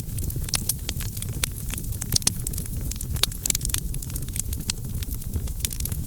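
Wood campfire crackling: frequent, irregular sharp snaps and pops over a steady low rumble of burning.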